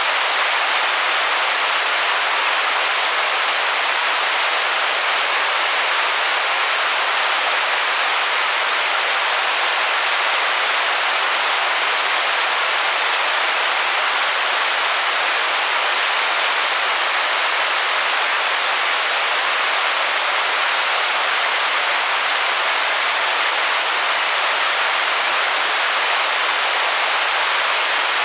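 Waterfall on a small river: water pouring over a drop in a steady, unbroken rush, mostly a bright hiss with little low rumble.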